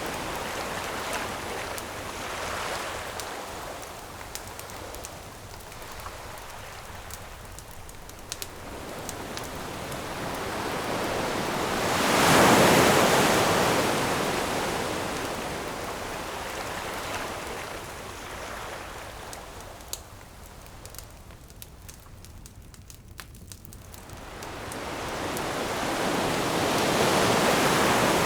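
Ocean waves breaking on a shore in slow swells, the biggest about twelve seconds in and another near the end, over the crackling and popping of a wood campfire.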